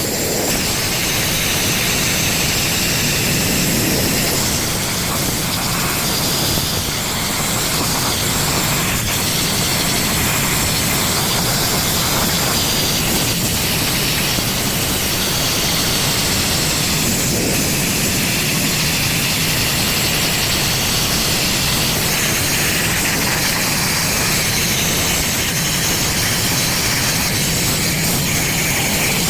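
Sandblaster nozzle blasting abrasive onto the rusty steel of a truck flatbed: a loud, steady, rushing hiss of compressed air and grit.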